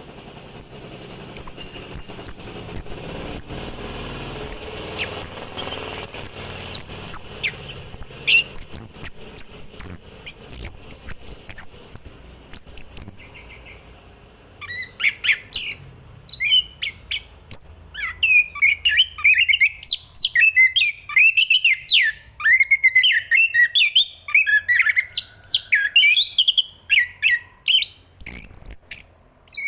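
Chestnut-capped thrush singing: thin, high, rapid twittering for the first half, then, after a brief pause about halfway, a fast run of lower, varied song phrases.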